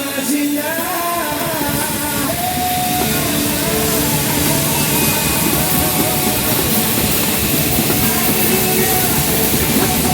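Live rock-style band with drum kit and guitar: a singer draws out the final word of the song, then the band keeps playing loud with a thick wash of drums and cymbals.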